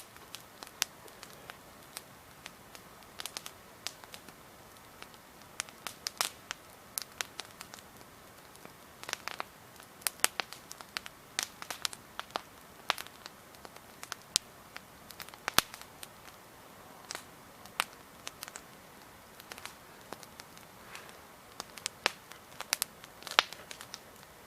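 Wood campfire crackling, the logs giving off sharp irregular pops and snaps, some louder than others, over a faint steady hiss of burning.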